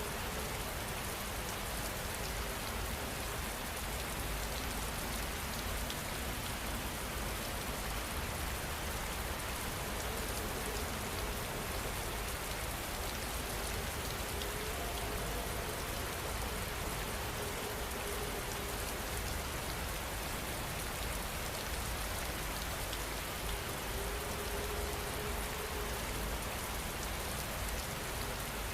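Steady rain falling on surfaces, an even hiss of many drops. A faint, low, brief tone recurs every few seconds.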